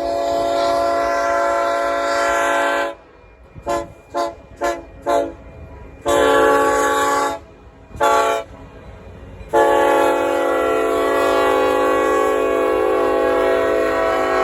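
Locomotive multi-chime air horn on Union Pacific 1983, the Western Pacific heritage unit, blowing a crossing sequence. A long blast, a run of four quick short toots, another long, a short, then a final long blast held about five seconds.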